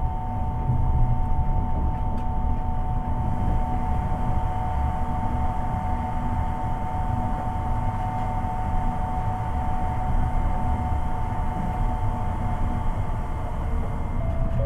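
A Seibu 8500 series rubber-tyred people-mover running, with the low rumble of its tyres on the guideway and the steady whine of its Hitachi IGBT-VVVF inverter. The inverter whine steps down in pitch near the end.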